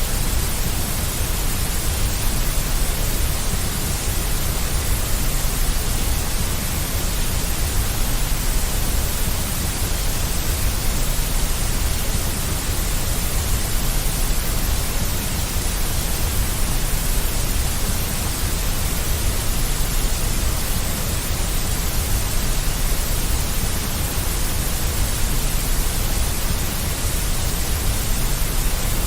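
Steady, deep white noise: an even, unchanging hiss with a strong low rumble underneath.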